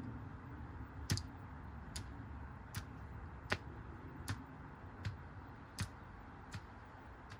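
A steady run of sharp clicks, about one every three-quarters of a second, starting about a second in.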